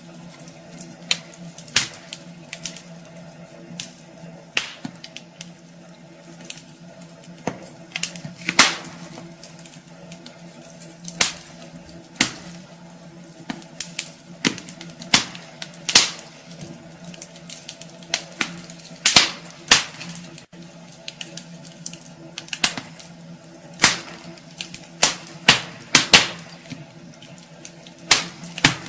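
Wood fire burning in a fireplace, crackling and popping at irregular intervals, several sharp pops a second at times, over a steady low hiss.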